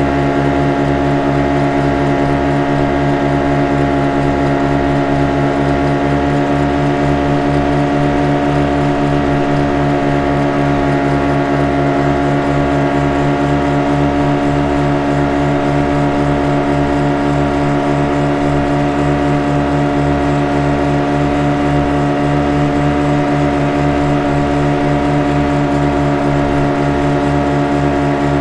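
Motorboat engine running steadily at an unchanging pitch, a humming drone over a fast low throb.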